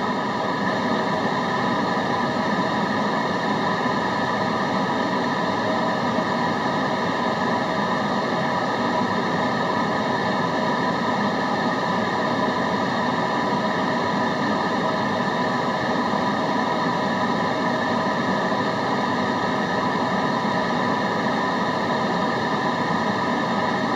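Steady white-noise track: a constant, unchanging rush with several steady tones running through it.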